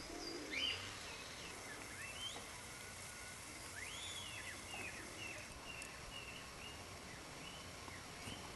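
Small birds chirping and calling outdoors: a scatter of short, high chirps, with a louder rising note about half a second in and a quick run of short notes past the middle.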